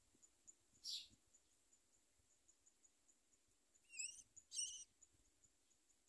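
Three short high bird chirps, one about a second in and two close together around four seconds in, the later ones wavering in pitch. A faint high ticking repeats about four times a second underneath.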